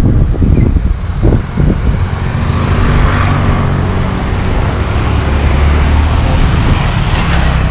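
A road vehicle's engine running steadily with rushing road noise; the low engine hum firms up a couple of seconds in.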